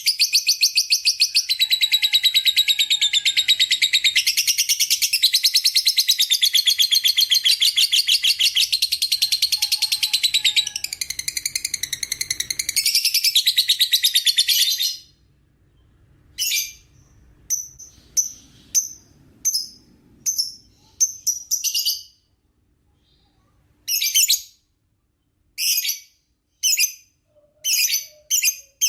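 Lovebird singing its long 'ngekek', a rapid, high chattering trill that runs unbroken for about fifteen seconds and then breaks up into short separate bursts of chirps.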